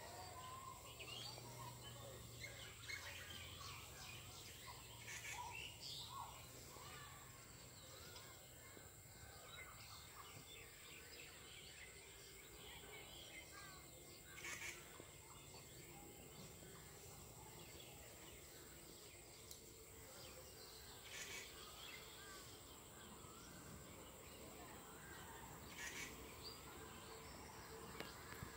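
Quiet rural background with faint, scattered bird chirps.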